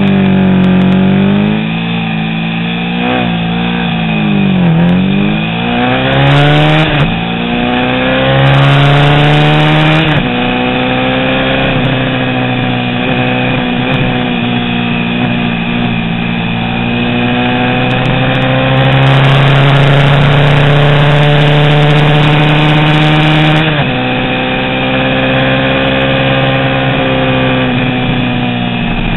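Small vintage road-racing motorcycle engine at full racing revs, most likely a Honda CB350 parallel twin. Its pitch swings down sharply several times in the first five seconds as it shifts down. It then climbs through gear changes about seven and ten seconds in, pulls steadily for a long stretch, and changes gear again near the end.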